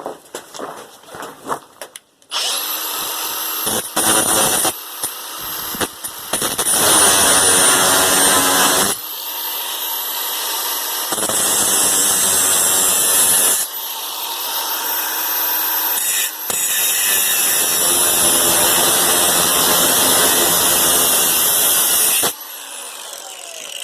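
A high-pitched power tool cutting through half-inch EMT steel conduit. It runs in several spells over about twenty seconds, its cutting noise growing and easing as it bears on the metal, and it winds down near the end.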